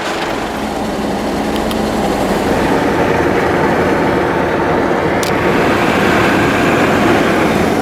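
A moving car's engine and road noise, steady and growing a little louder over the first few seconds.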